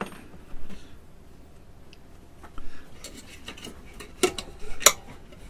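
Metal clinks and knocks of a handmade kalimba's steel tines being handled and fitted onto the instrument. There are a few separate sharp clicks, the loudest two near the end, one ringing briefly.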